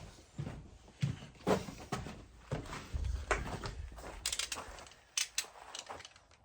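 Scattered knocks, clatters and rustling of tools and materials being handled, with a short low rumble about three seconds in.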